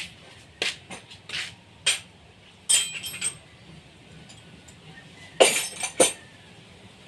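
Metal objects clinking and knocking in about a dozen irregular sharp strikes, with louder ringing clusters about three seconds in and again about five and a half seconds in.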